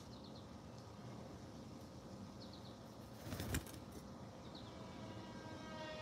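Quiet outdoor background with a few short, high bird chirps. A brief thump comes about halfway through, and a steady, distant horn-like tone fades in near the end.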